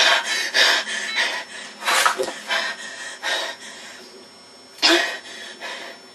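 An angry boy breathing hard and letting out short grunting, coughing bursts of breath, about once every second or so, between his shouted demands.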